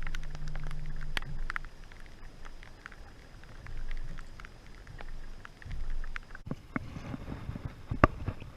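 Scattered, irregular taps of raindrops over a low, muffled rumble that swells and fades.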